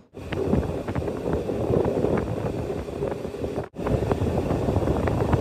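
Passenger train running along the track, heard from an open coach door: a steady rumble with wheels clattering over the rails and air rushing past the microphone. The sound breaks off for an instant about two-thirds of the way through.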